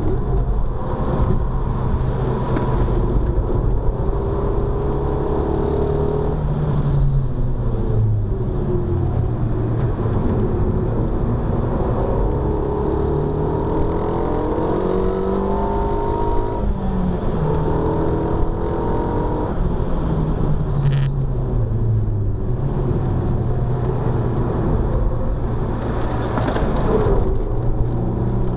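Car engine heard from inside the cabin while driven hard on a race circuit, the revs repeatedly climbing and then dropping through gear changes and lifts, over steady road and tyre noise.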